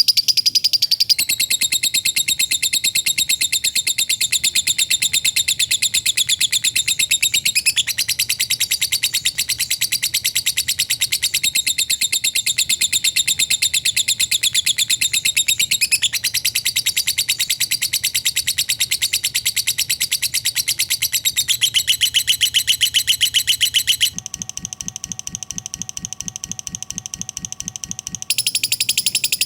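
Lovebird ngekek: a long, unbroken, very fast high-pitched chattering trill with the notes packed tightly together. About three-quarters of the way through, a quieter, differently patterned stretch interrupts it before the trill returns.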